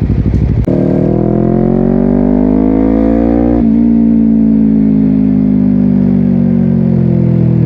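Honda CBR250RR parallel-twin with a Yoshimura exhaust accelerating hard, its pitch climbing, then a quick clutchless upshift through the quickshifter about three and a half seconds in, after which the engine note slowly sinks as the throttle eases.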